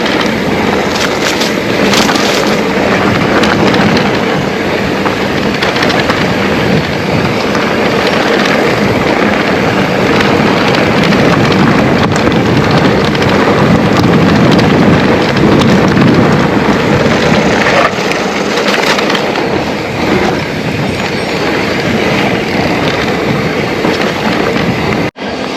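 Trek Rail electric mountain bike rolling over loose, stony trail: a continuous rattle and crunch of tyres on stones, with the bike and camera mount clattering over the bumps.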